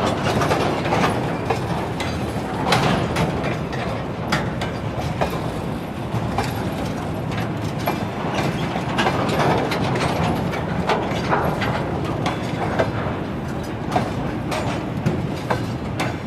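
Freight wagons rolling past on the track, a steady rumble with wheels clicking and knocking over rail joints.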